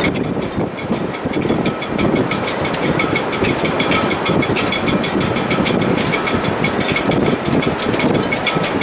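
Wind in a sailboat's shrouds in heavy weather: a loud, steady rushing noise that surges and eases, with a faint whistle and a fast, regular ticking over it.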